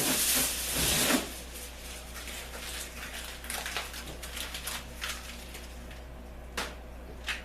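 Tin foil and cardboard wrapping being pulled off and crumpled. There is a loud rustle in the first second, then softer scattered crinkles and a couple of sharp clicks near the end.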